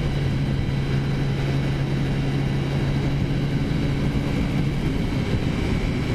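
Taotao 50cc four-stroke scooter engine running steadily under way, heard over wind rush. About five seconds in its note changes, the low tone giving way to a higher one.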